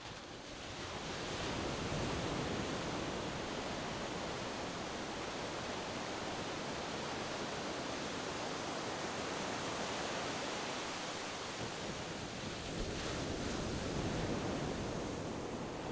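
Ocean surf washing on a shore: a steady rushing that fades in over the first couple of seconds, with slow, gentle swells.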